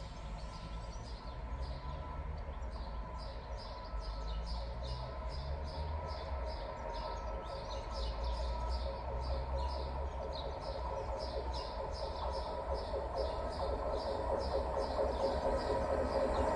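Freight train approaching from a distance, a low rumble that grows steadily louder. Over it runs an even series of short high chirps, about two or three a second.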